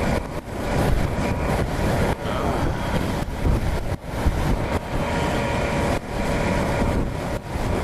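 Gusty wind buffeting the microphone of a riding motorcycle, over the steady running of a BMW G 650 GS Sertao's single-cylinder engine at road speed.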